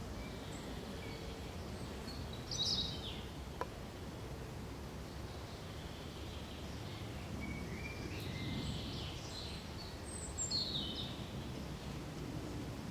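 Forest ambience: birds calling and chirping over a steady low background noise, with the two loudest calls about two and a half seconds in and again after about ten seconds. A single short click sounds about three and a half seconds in.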